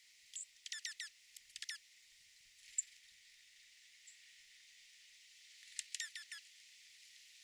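Small birds calling: quick runs of four or five short down-slurred notes, heard three times, with a few sharp high single chips between them, over a steady faint hiss.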